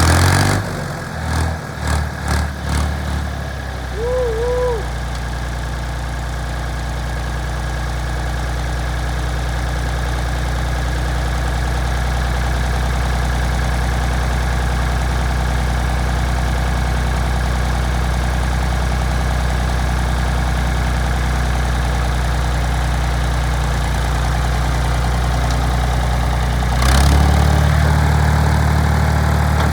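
1974 Ford tractor engine running unevenly for the first few seconds, then settling into a steady idle. There is a brief high chirp about four seconds in. About 27 seconds in, the engine speed steps up slightly and stays there.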